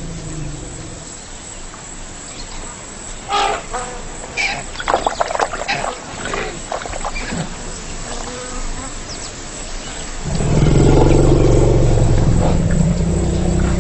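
Wildlife sounds: flies buzzing and scattered short animal calls, then about ten seconds in a loud, low, drawn-out animal call lasting a few seconds.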